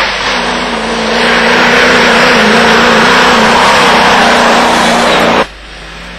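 Land Rover engine running hard at high revs, loud and close, with a wavering engine note. About five seconds in the sound drops away abruptly.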